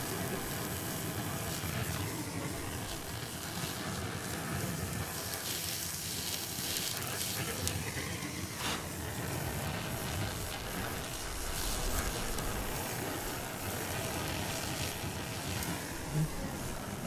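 Brazing torch flame burning with a steady hiss while the copper joints of a replacement TXV are brazed, with nitrogen flowing through the refrigerant lines.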